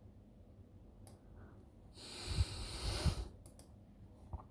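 A hissing, breath-like exhale close to the microphone, lasting about a second, with a few soft clicks before and after it over a faint room background.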